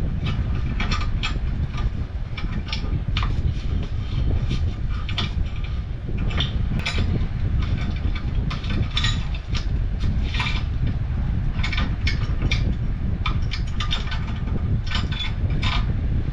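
Irregular metallic clicks and clinks of wrenches and gas pipe fittings being handled and fitted at a furnace gas valve, over a steady low rumble.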